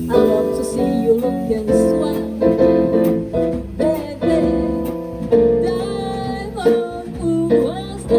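Live music: a voice singing a melody over plucked or keyed acoustic instruments, with notes held and changing every half second or so.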